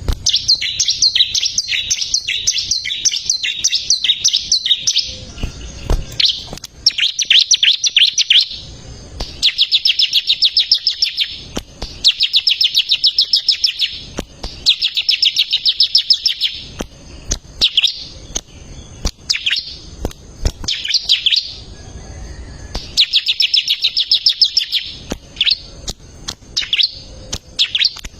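Bar-winged prinia (ciblek) in full song: fast, high runs of rapidly repeated chirping notes, each phrase lasting a few seconds, with short pauses between phrases.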